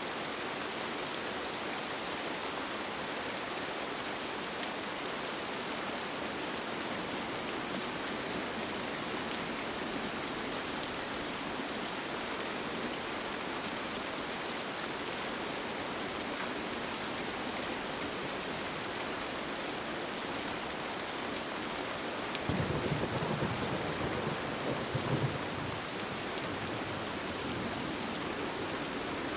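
Steady rain falling on a tent. A low roll of thunder rumbles for a few seconds about three-quarters of the way through.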